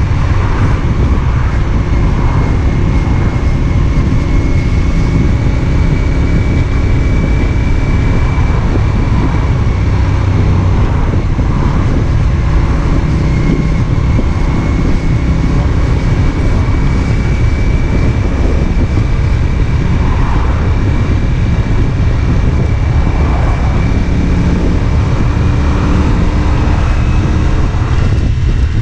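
CFMoto 450SR S's parallel-twin engine running at a steady pace while riding, with no sharp revs, and a thin steady high whine above it.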